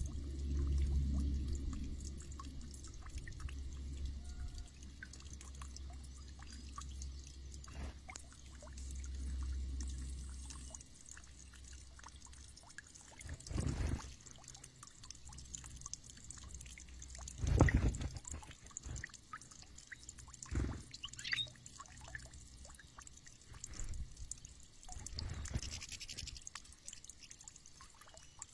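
Small finches bathing in a shallow water bath: light dripping and splashing, with a few louder splashes, the biggest about two-thirds of the way through. A low rumble runs underneath for roughly the first half.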